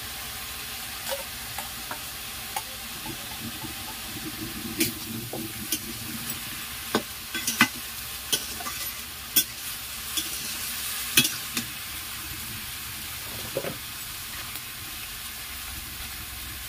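Pumpkin stems, taro and potatoes frying in oil in a kadai with a steady sizzle, while a ladle stirs them, scraping and knocking against the pan at irregular intervals. The masala has just been added.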